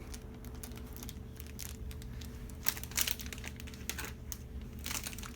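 Scattered light clicks and rustling of a small plastic toy and its packaging being handled, over a steady low hum.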